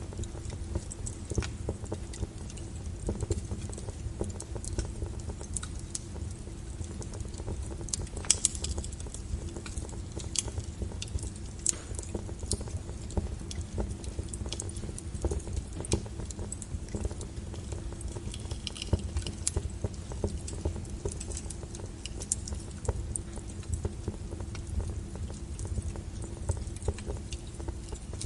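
Log fire in a fireplace crackling: irregular sharp pops and snaps over a low steady rumble of burning wood, with a louder pop about eight seconds in.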